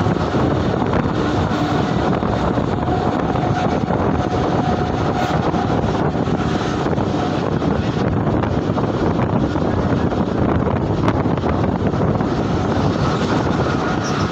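Mumbai suburban electric local train running at speed, heard from its open doorway: a steady rush of wind on the microphone over the train's running noise. A faint steady whine shows through for a few seconds near the start.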